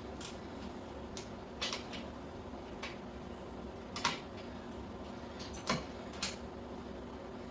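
Irregular light metallic clicks and taps as a washer and acorn nut are worked onto a motorcycle's rear shock mounting stud by hand, over a steady low hum; the sharpest taps come about four and six seconds in.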